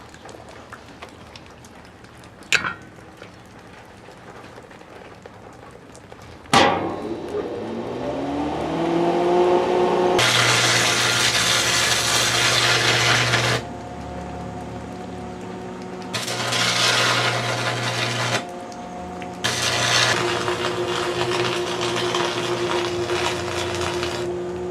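A small electric motor switches on with a sharp start and spins up to a steady whine over about three seconds, then keeps running. Three loud stretches of whirring, grinding noise come on and off over the steady tone. A single click comes a few seconds before the motor starts.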